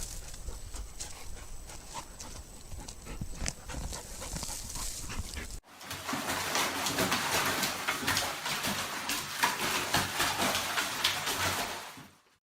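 Dog sounds across two short clips: first faint, with scattered clicks, then after an abrupt cut a louder, dense noisy stretch with many short clicks.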